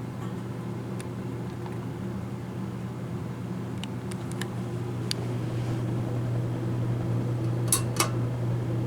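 Harbor Breeze Vue 42-inch three-blade ceiling fan running on high speed: a steady motor hum under the rush of air from the blades, growing slowly louder. A few faint clicks, two sharper ones near the end.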